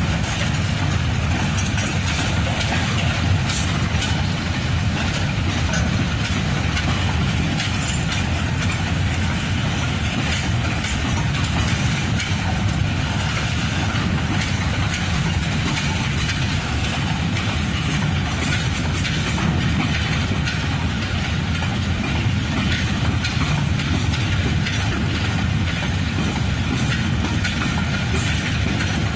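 Empty freight train rolling by on the rails: a steady rumble of wheels with light clicking and clatter from the wagons.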